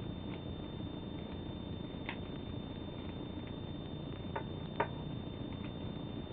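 Sheet of origami paper being folded and creased: a few light crackles and taps, the loudest near five seconds in, over a steady low background hiss.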